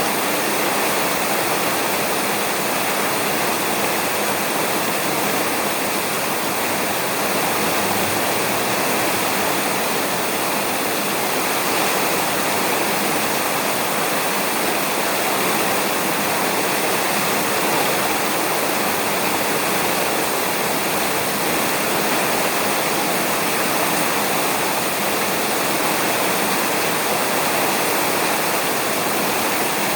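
Steady rain falling on a roof, an even, unbroken hiss of drops with no thunder in this stretch.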